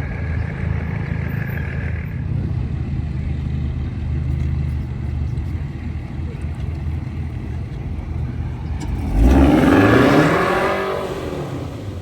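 Car engines idling at a drag strip start line, then about nine seconds in a car launches hard: a loud surge of engine revs climbing in pitch, which then fades as it pulls away down the strip.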